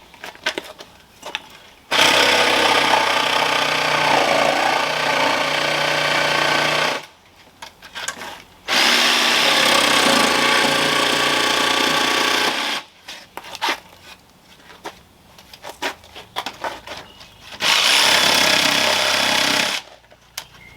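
Electric jigsaw cutting through thick yellow pine 2x12 board in three runs, about five, four and two and a half seconds long, with light knocks and handling of the board between the cuts.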